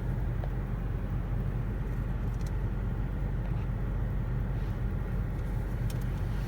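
A LaserWash M5 touchless car wash running steadily, heard from inside the car: a low rumble of the machinery with spray on the car as it applies Rain-X.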